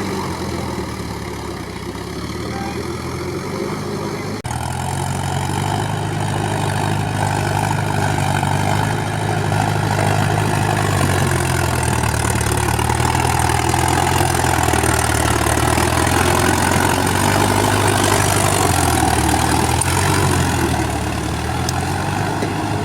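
Heavy diesel engine running, its note rising and easing off in slow swells. It turns abruptly louder about four seconds in.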